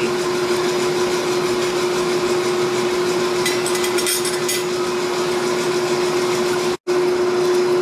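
Steady hum of shop machinery with one constant tone, with a short stretch of high, scratchy metal-grinding noise in the middle, where the end of a forge-welded billet is ground to check for delamination. The sound cuts out for an instant near the end.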